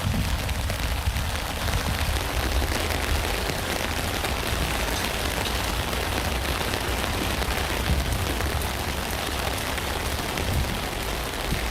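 Steady rain falling on a tent: a dense, even hiss of countless drops, with a strong low rumble underneath.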